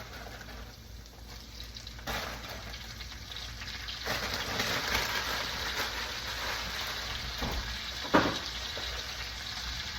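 Alfredo sauce of butter and cream sizzling in a pan on the stove, the sizzle growing louder about four seconds in. A couple of sharp knocks near the end.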